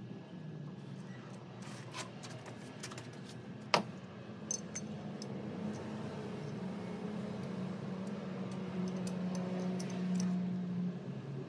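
Small metal parts or tools clinking now and then, with one sharp clink about four seconds in, over a steady low hum.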